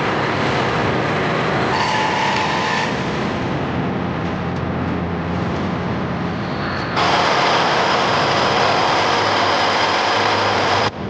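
Loud, steady engine and machinery noise from military vehicles. The character of the noise changes abruptly several times, about 2, 3 and 7 seconds in and near the end, as one clip cuts to another.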